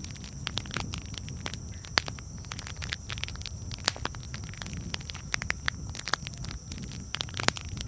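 Campfire crackling: irregular sharp pops and snaps over a low rumble of burning flames. A few pops stand out louder, about two seconds in, near four seconds and near the end.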